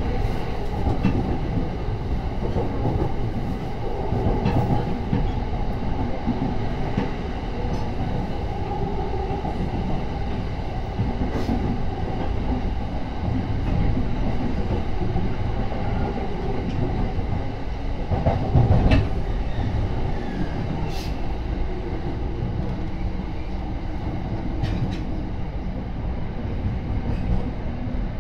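Running noise of a Yokosuka Line commuter train heard from inside the carriage: a steady rumble of wheels on rail, with a few sharp clicks and a brief louder surge about two-thirds of the way through.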